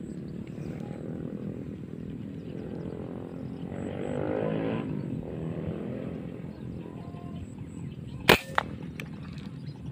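A single sharp air-rifle shot about eight seconds in, followed a moment later by a second, fainter click, over a low, steady rumble.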